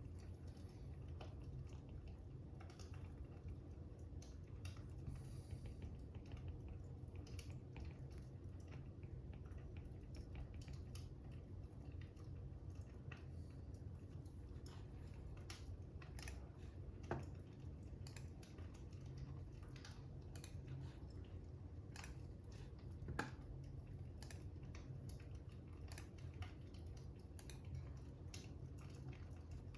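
Fire crackling: irregular small pops and snaps over a low steady rumble, with two louder pops in the second half.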